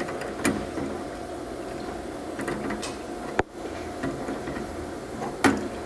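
A few short, sharp clicks and knocks, like parts or tools being handled, over a steady background hum with a faint constant tone. The loudest click comes near the end.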